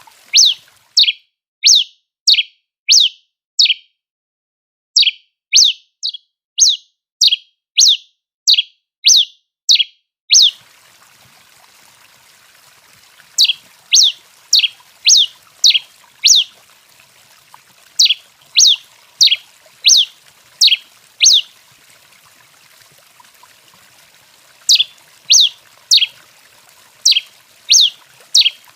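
Tico-tico-rei giving its calls: sharp, high downslurred notes about two a second, in runs of five to eight notes with pauses of a couple of seconds between runs.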